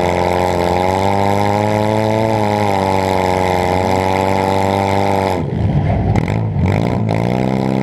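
Demolition derby car's engine heard from inside the car, held at high revs, then dropping off about five and a half seconds in among a few knocks, before climbing again near the end.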